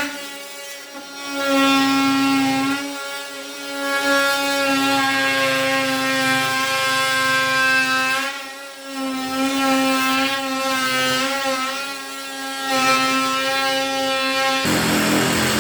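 Electric power tool running with a steady whine, its loudness easing off and coming back several times. Near the end it gives way to a rougher, noisier sound with a low hum.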